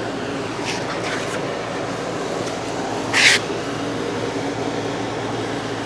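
Steady mechanical fan hum, with one short high hiss about three seconds in.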